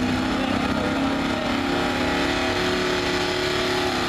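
Gasoline engine of a modified street pickup running hard at high revs while pulling a weight-transfer sled. Its pitch climbs slowly, then holds steady.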